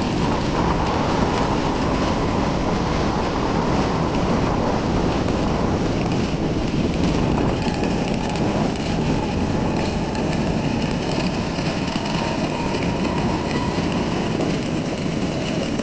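Honda Cub 50's small single-cylinder four-stroke engine running steadily under way, mixed with a steady rushing noise as the bike rides along a dirt path.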